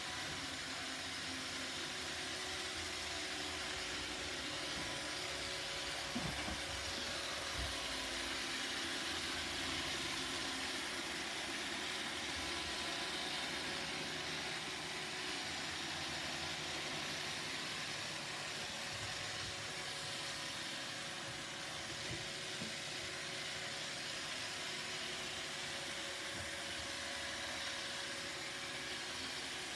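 Roomba robot vacuum running with a steady whirring hiss, broken by a few light knocks.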